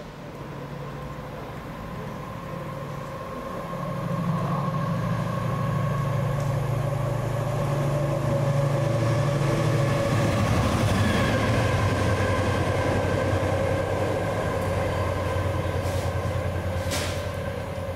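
Train passing through a station: a low droning rumble with a steady tone above it builds over the first few seconds, drops in pitch as the train goes by about ten seconds in, then carries on steadily before fading at the end.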